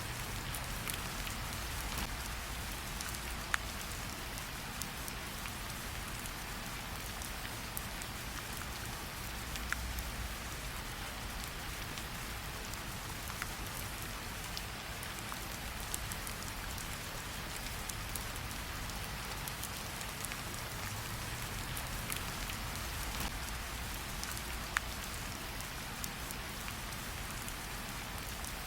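Steady rain falling, an even hiss with a low rumble underneath, broken by occasional sharp clicks at irregular moments.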